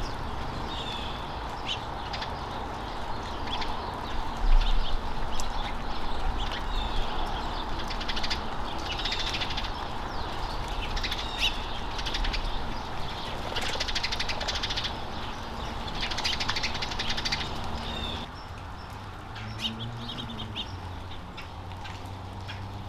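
Small songbirds chirping and twittering in many short calls over a steady background hum; the hum drops away suddenly about 18 seconds in.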